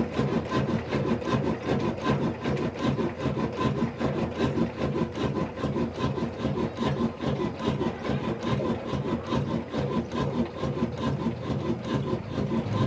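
Old 22 hp black desi diesel engine running steadily after being started, with an even rhythmic beat of about three a second.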